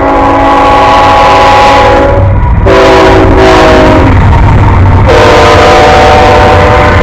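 Train horn sounding a loud multi-note chord in long blasts over the low rumble of the train. The horn breaks off and sounds again twice, and its chord is lower in pitch after about five seconds in.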